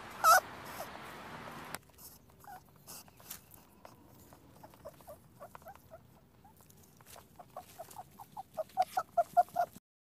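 Rabbits squeaking: one loud short squeak just after the start, then scattered short high squeaks that become a rapid, louder run of squeaks near the end.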